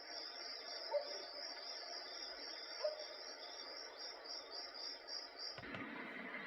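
White noise machine playing a cricket nature-sound track: a steady, pulsing high trill with two brief bird-like chirps. Near the end it switches suddenly to a different, noisier sound.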